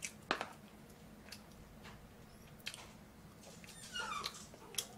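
Quiet eating sounds close to the microphone: scattered small mouth clicks and smacks as food is chewed, with a short falling squeak about four seconds in.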